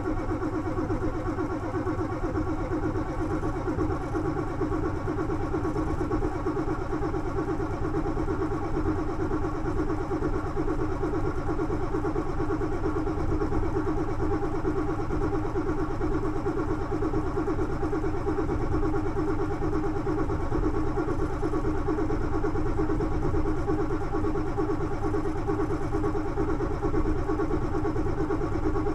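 Ford F-250 diesel engine running steadily at idle just after a cold start on glow plugs.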